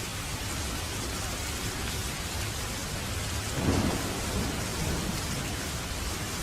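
Steady rain, with a roll of thunder rising about three and a half seconds in and fading over the next second or so.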